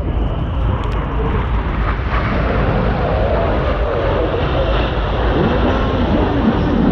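Jet engine noise from Red Arrows BAE Hawk T1 jets flying a display: a steady rushing sound that grows gradually louder.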